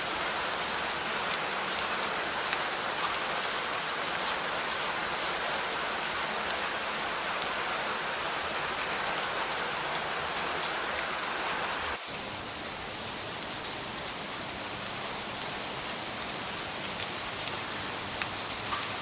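Steady rain falling, with individual raindrops ticking sharply here and there. The sound changes abruptly about two-thirds of the way through, becoming slightly quieter and thinner.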